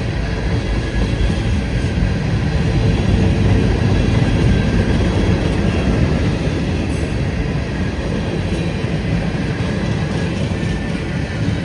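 Freight train rolling past, a steady loud rumble of wheels and cars on the rails.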